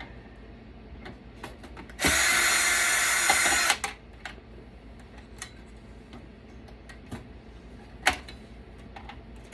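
A power drill runs steadily for just under two seconds, about two seconds in, likely backing screws out of a desktop computer being dismantled. A single sharp click follows near the end.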